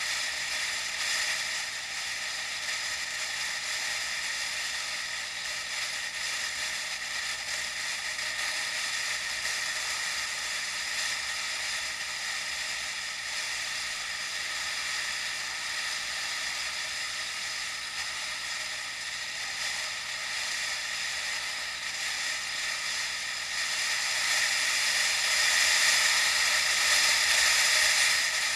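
Steady hiss of wind and road noise during a bike ride, picked up by an action camera, with almost no low end. It grows louder near the end.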